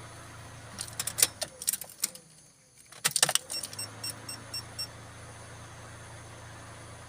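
Ignition keys jangling and clicking as the key is turned in a Proton Wira 1.6, the car's steady low hum cutting out for under a second as the ignition is switched off and back on. A short run of about five light ticks follows.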